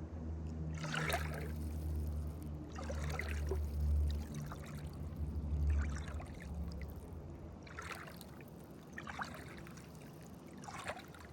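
Lake water splashing in soft repeated swishes, about every one to two seconds, over a low rumble that fades out about two-thirds of the way through.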